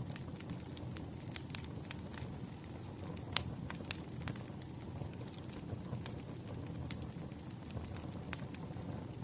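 Burning firewood crackling and popping in irregular sharp snaps over a low, steady rumble, with one louder pop a little over three seconds in.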